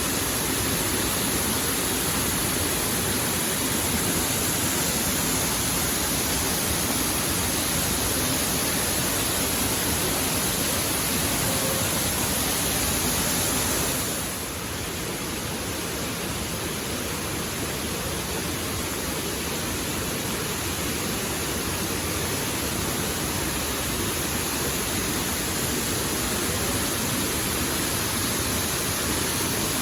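Waterfall: a steady, even rush of falling water. About halfway through it drops slightly in loudness and loses some of its hiss, then slowly builds back.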